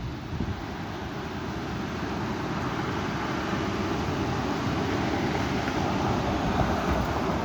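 Strong wind gusting, a rushing noise that builds steadily over several seconds and peaks near the end.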